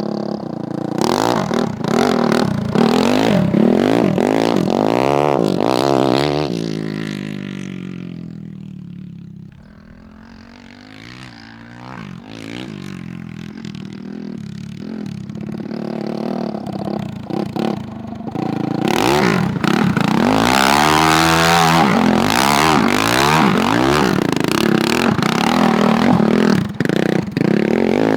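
Honda CRF450 single-cylinder four-stroke engine in a go-kart, revving up and down as it is driven hard. It fades away around eight to twelve seconds in, then grows loud again and keeps revving near the end.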